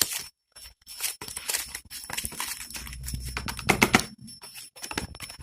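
Handling noise from a small cardboard box of snap-pop firecrackers being opened and its contents moved about: irregular rustling and clicking, with a few louder knocks a little before four seconds in.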